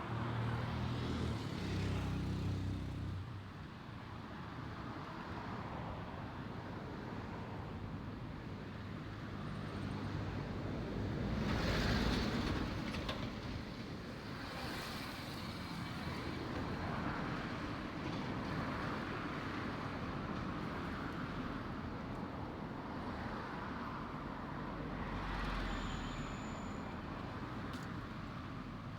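Road traffic: a steady wash of vehicles passing on a nearby road, with an engine's low drone in the first few seconds and a louder vehicle going by about twelve seconds in.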